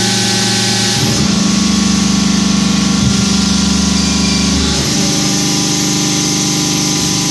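Lego-brick making press running: a loud, steady machine hum whose pitch and load shift about a second in and again near five seconds in.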